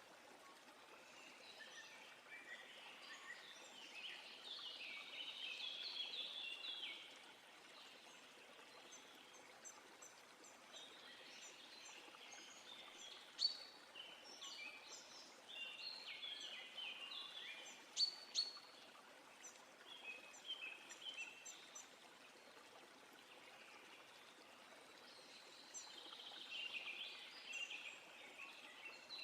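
Songbirds singing faintly in chirping phrases that come and go over a steady soft rush of running water, with two sharp clicks in the middle.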